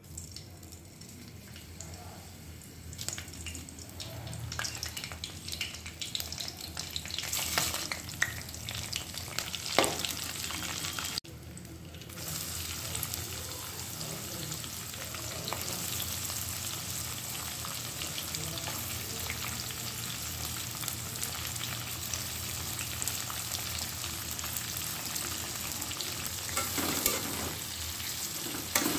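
Whole spices and green chillies crackling in hot oil in a kadhai. After a break about eleven seconds in, sliced onions sizzle steadily in the oil, with a spatula scraping and stirring them against the pan near the end.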